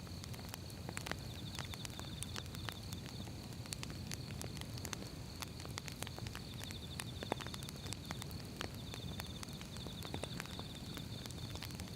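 Firewood burning: irregular sharp crackles and pops over a steady low rumble of flames. A faint high steady whine runs beneath, broken now and then by short rapid trills.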